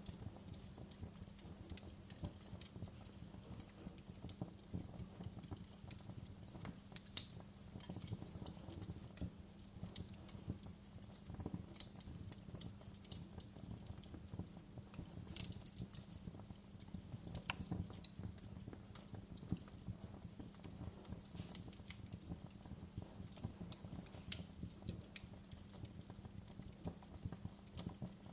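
Wood fire crackling in a fireplace: a steady low rumble of flames under frequent sharp pops and snaps, with one louder pop about seven seconds in.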